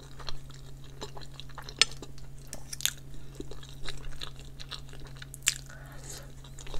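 A person chewing and biting food close to the microphone, a mouthful of cheese-topped chicken breast, with wet mouth sounds and a few sharp clicks, over a steady low hum.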